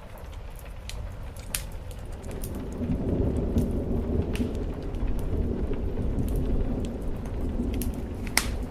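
Low rolling thunder building about two seconds in and rumbling on, over steady rain on a roof, with scattered sharp crackles from a wood fire.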